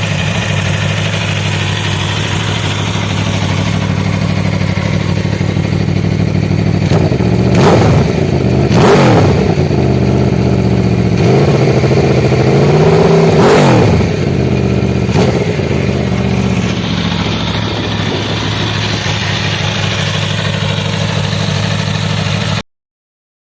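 Aprilia Tuono 1100 Factory's V4 engine idling steadily, blipped several times about a third of the way in: a few short revs and one slower rise and fall. The sound cuts off suddenly near the end.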